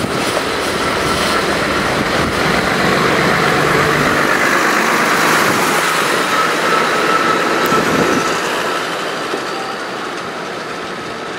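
Jet airliner's engines passing close: a loud roar with a steady high whine over it, building to its loudest about halfway through and then slowly fading.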